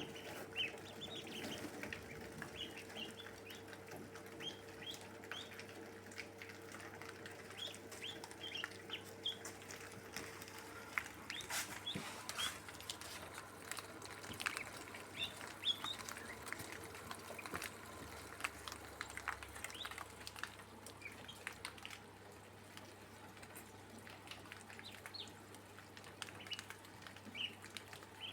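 Backyard poultry calling: many short, high chirps and peeps scattered throughout, with a few soft clicks.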